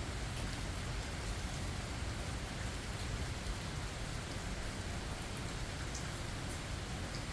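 Steady rain falling, with a few single drops ticking now and then.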